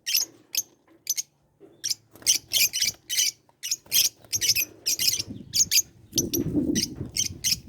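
Lovebirds chirping: a run of short, high-pitched chirps repeated two or three times a second, with a brief lull about a second in.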